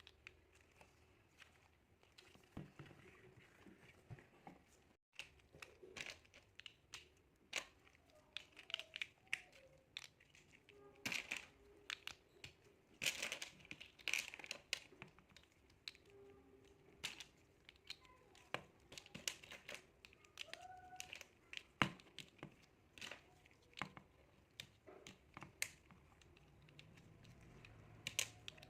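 Miniature plastic building blocks being handled and snapped together: irregular small clicks and light crinkly rustling, busiest in the middle.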